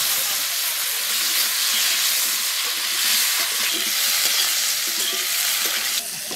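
Cauliflower florets sizzling steadily as they fry in hot mustard oil in a wok. The sizzle drops to a lower level near the end.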